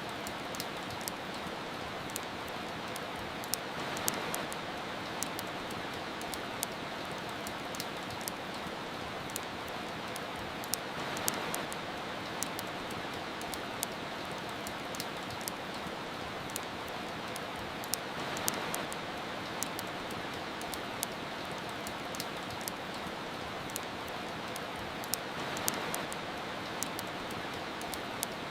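Steady soft rain hiss with a fireplace crackling, scattered sharp pops over it. The rain swells a little about every seven seconds.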